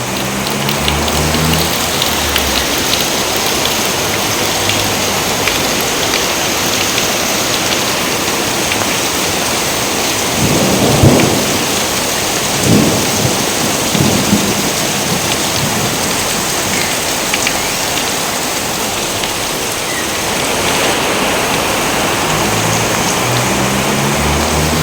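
Steady heavy rain, with thunder about halfway through: three claps in quick succession, the first the loudest.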